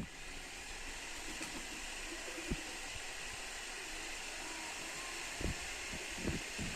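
A steady hiss, with a few soft thumps and faint low cooing under it.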